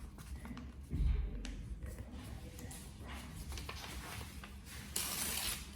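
A sheet of paper being handled and folded: light rustling and small taps, a low thump about a second in, and a longer, louder rub of paper near the end as a fold is creased.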